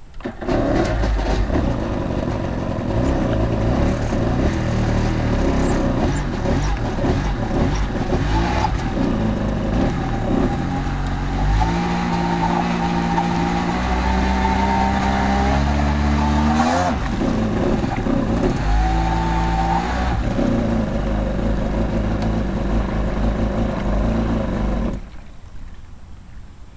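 1993 Kawasaki 750SX stand-up jet ski's two-stroke twin started on the trailer, out of the water: it catches almost at once, runs, and is revved up several times with rising pitch in the middle, then is shut off near the end.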